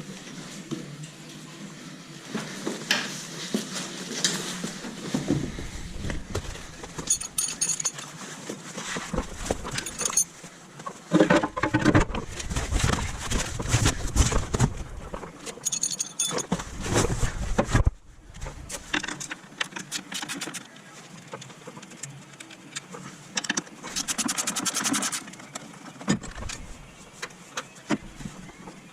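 Workshop work on a car during engine removal: metal tools and parts clinking, clanking and rattling, with some ringing metal strikes. The handling is busiest in the middle, and a rapid run of clicks comes near the end.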